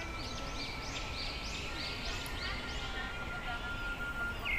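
Birds calling in a quick series of high, arching notes, about two to three a second, fading out after about three seconds, over a thin steady high tone.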